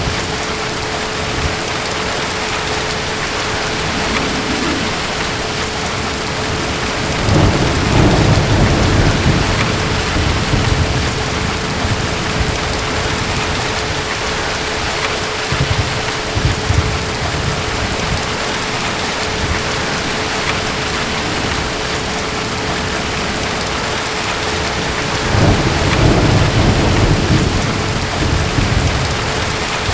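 Steady heavy rain with distant thunder rolling low twice, about seven seconds in and again near the end.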